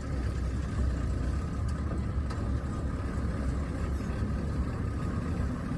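A heavy engine running steadily, a low, even rumble.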